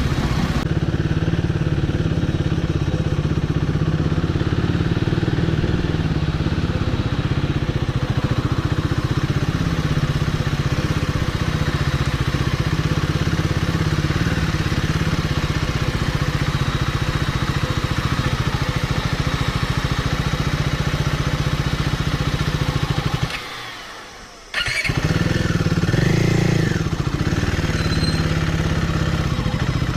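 Motorcycle engine running steadily on the move. The sound fades away for about a second near the end, then comes straight back.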